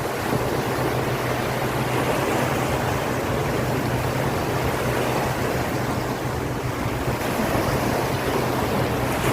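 Wind buffeting the microphone over sea waves, a dense steady rushing noise, with a steady low hum underneath.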